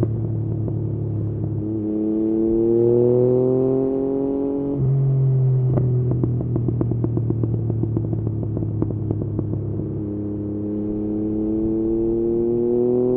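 Yamaha MT-09's three-cylinder engine through an Akrapovič exhaust, pulling up through the revs, then rolling off the throttle with a string of pops and crackles from the exhaust, and pulling up through the revs again near the end.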